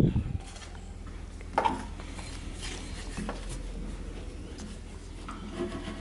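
A sharp knock at the start and another about a second and a half in, with scattered light clicks and clinks of handling, over a low steady hum.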